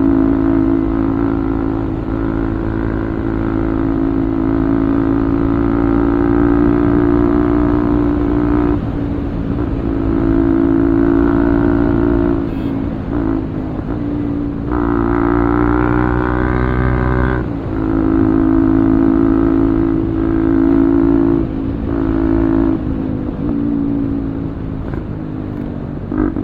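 Bajaj Pulsar 200's single-cylinder engine running through an Akrapovic full-system aftermarket exhaust while riding. The exhaust note holds steady, with brief dips and changes several times as the throttle is eased or gears change.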